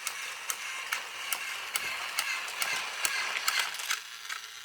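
Battery-powered Trackmaster toy engine running on its plastic track: a small electric motor whirring with steady clicking about three to four times a second. The whir fades about four seconds in as the engine slows to a stop.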